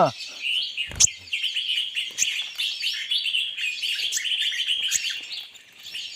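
Small birds chirping and twittering in a dense, continuous chatter of high, quick notes, with one sharp snap about a second in.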